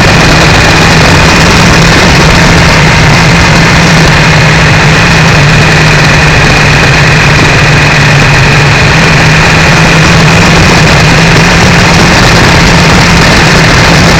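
Triumph 955i motorcycle's three-cylinder engine running steadily at a constant pitch under a thick rush of wind noise. The recording is very loud and overloaded.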